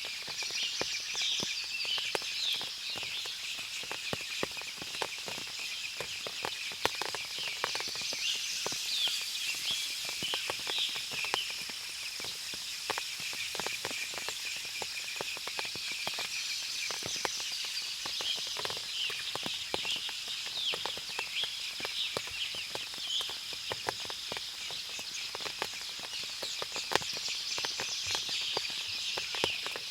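Forest ambience after rain: small birds twittering in bursts every several seconds, over a steady high-pitched hum and many scattered sharp ticks of water dripping.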